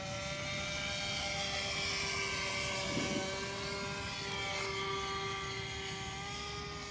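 OS 25FX glow engine on a radio-controlled model airplane running steadily at high revs, its pitch drifting gently up and down as the plane flies. The engine is one whose owner says sounds wrong and could hardly be throttled back, its bearings rusted from long storage.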